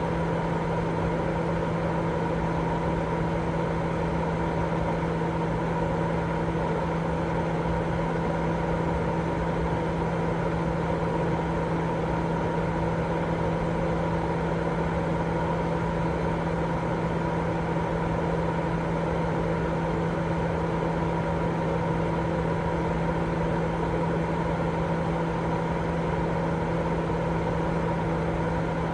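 Continuous white noise for baby sleep: an even, unchanging rushing noise with a steady low hum running under it.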